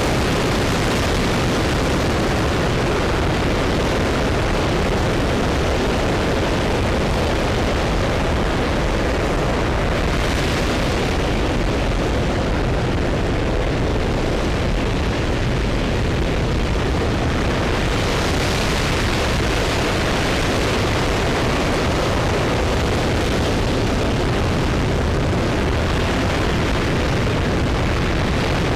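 RS-25 liquid-hydrogen/liquid-oxygen rocket engine firing on a ground test stand: a loud, steady, even rush of noise that holds at one level with no breaks.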